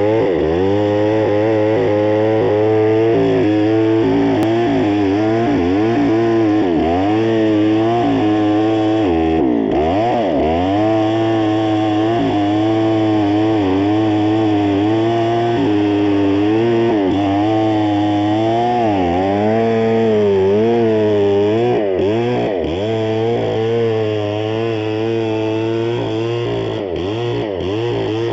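A power tool running continuously while cutting wood, its pitch dropping under load and recovering again and again.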